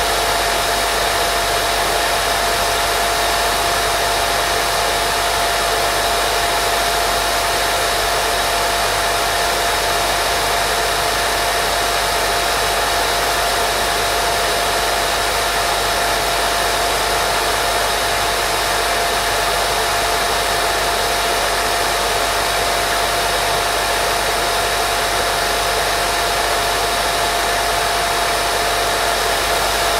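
Steady, unchanging white noise: an even hiss across the range with a single steady tone running through it, played as a baby-sleep sound.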